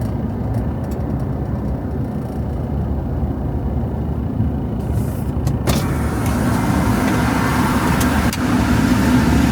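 Motor vehicle running, with steady low engine and road rumble. About six seconds in, a loud hiss of road or traffic noise comes in suddenly and stays.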